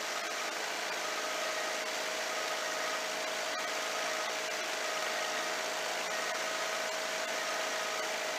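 Legal Eagle ultralight airplane's engine and propeller running steadily in flight: an even drone with a steady hum and no change in pitch.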